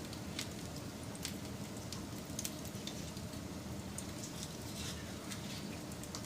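Wood fire burning with a steady low rush and scattered sharp pops and crackles.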